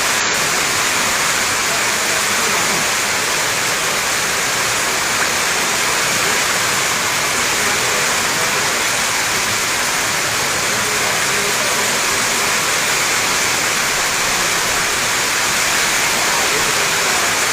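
Steady rain pouring down: an even, unbroken hiss that holds at one level throughout.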